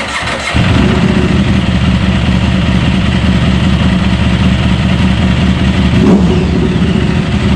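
Combustion engine running loudly just after starting, stepping up about half a second in and then holding steady, with a brief rev about six seconds in.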